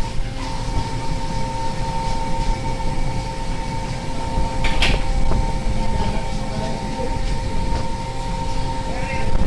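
Steady machinery drone aboard a longline fishing boat: a low rumble with two constant tones. A short hiss cuts through about five seconds in.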